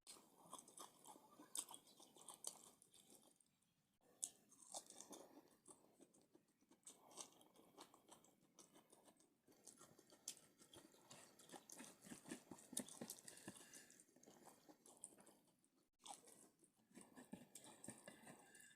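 A person chewing and biting into chicken, a quiet run of crunchy mouth noises and small clicks, with short breaks about four and sixteen seconds in.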